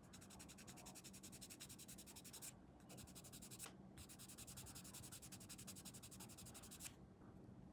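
Quick back-and-forth sanding strokes on a small plastic scale-model part, about eight a second. The strokes pause briefly twice and stop about seven seconds in.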